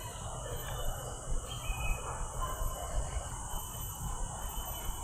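Steady high-pitched chorus of insects droning without a break, over a low rumble.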